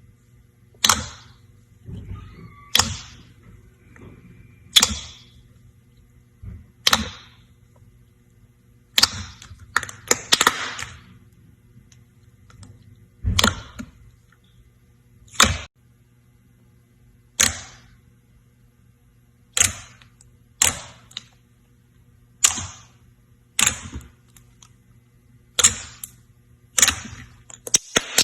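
Slime being pressed and stretched, making sharp clicky pops about every two seconds as trapped air bursts, over a faint steady low hum.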